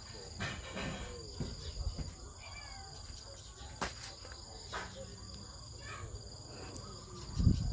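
Insects, crickets most likely, trilling steadily, with a second high chirp pulsing on and off. Scattered faint clicks and rustles come in between, and a low thump comes near the end.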